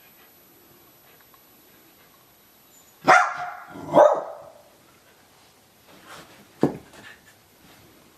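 Dog barking twice in play, about a second apart, then a single short sharp sound a few seconds later.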